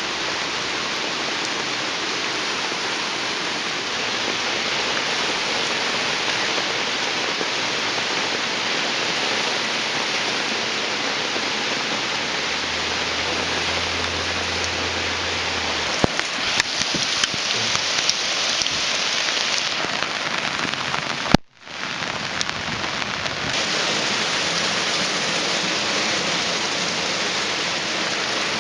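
Heavy rain mixed with quarter-inch hail pelting down in a dense, steady hiss. A low rumble comes in briefly midway, sharper individual hailstone impacts stand out just after it, and the sound drops out for a moment about three-quarters of the way through.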